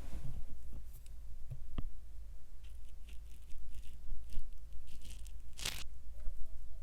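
Close-miked ASMR handling noises: scattered light clicks and crinkly, scratchy sounds, with one louder rasping burst near the end.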